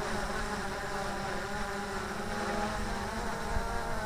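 DJI Air 2S quadcopter's propellers buzzing steadily in flight, a many-toned whine that wavers a little in pitch as the motors correct, with a gusty low rumble of wind underneath.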